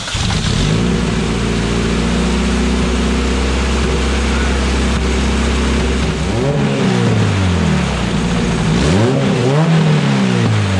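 Turbocharged LS V8 just fired up on its first start with new fuel injectors, running steadily at idle. It is revved briefly twice, about six and nine seconds in, the pitch rising and falling each time.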